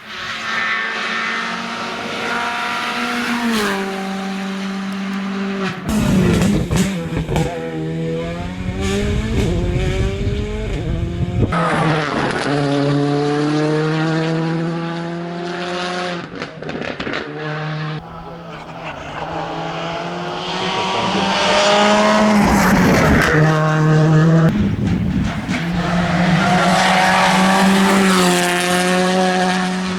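Rally car engines revving hard on a special stage, the engine note climbing and dropping again and again through gear changes, with some tyre squeal.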